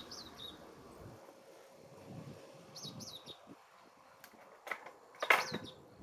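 Bird chirping in short, quick falling notes, a pair near the start, another about three seconds in and one more near the end. Underneath is faint wind and tyre noise, and two sharp knocks come near the end, the second one the loudest sound.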